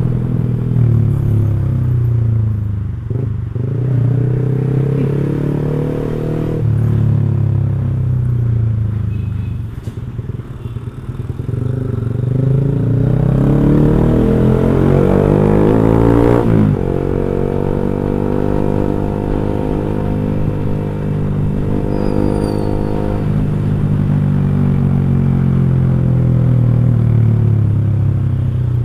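Motorcycle with an X1 Speed Pro One aftermarket racing exhaust, ridden on the road. The exhaust note rises and falls with throttle and gear changes, and about two-thirds of the way through a long climb in revs cuts off sharply.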